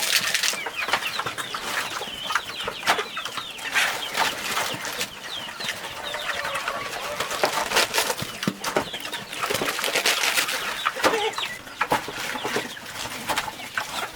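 A flock of chickens clucking and cheeping, with many short sharp clicks and rustles throughout.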